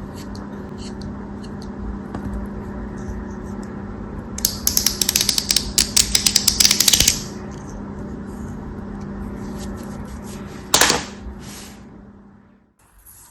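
A blade cutting through a crisp material: a rapid run of crackling clicks for about three seconds, starting about four seconds in, then one short crunch near the end, over a steady low hum.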